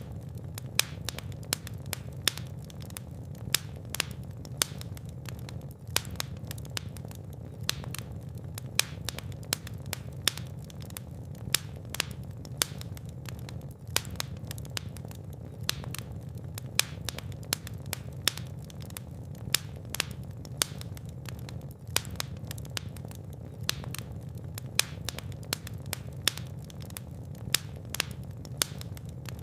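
Fire in a fireplace crackling, with irregular sharp pops several times a second over a steady low rumble of the flames.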